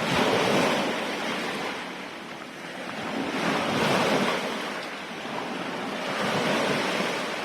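Sea waves washing in, rising and falling in three surges a couple of seconds apart.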